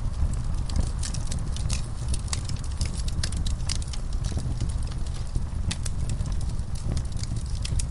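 Crackling fireplace ambience: frequent sharp, irregular pops and snaps over a steady low rumble, with horses in a stall mixed in.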